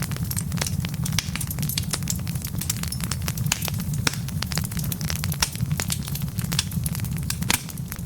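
Wood fire burning with a steady low rumble and frequent irregular sharp crackles and pops from the logs.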